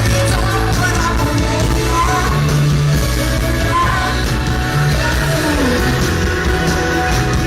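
Synthpop band playing live and loud, with heavy sustained bass and synths under a singer's voice.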